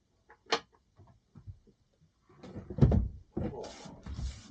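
Boat's engine access cover behind the companionway steps being unlatched and lifted away: a click, a heavy knock about three seconds in, then a second of scraping and rubbing as the panel is moved.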